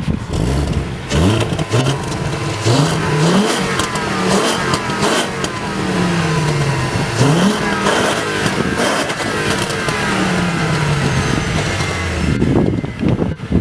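VW Golf Mk4 2.3 V5 five-cylinder engine with a modified exhaust, revved several times; the pitch climbs quickly and falls back more slowly each time.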